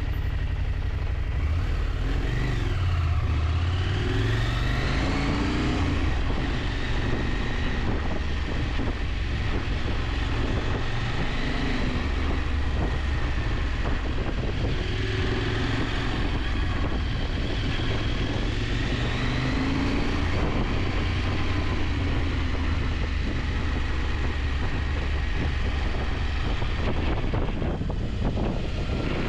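KTM 890 Adventure's parallel-twin engine running under way, its revs falling and rising several times, over a steady rush of wind noise.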